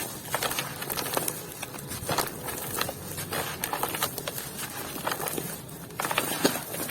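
Dry, dusty clumps being crushed and crumbled by hand, a steady run of gritty crunches and small crackles. The texture changes abruptly about six seconds in.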